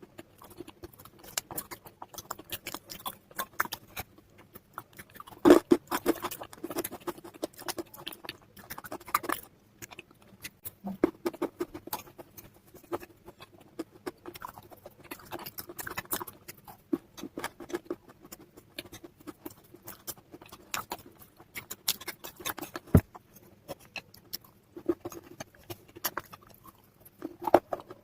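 Close-miked slate pencil and chalk pieces crunching, with many sharp, irregular crackles and a few louder snaps.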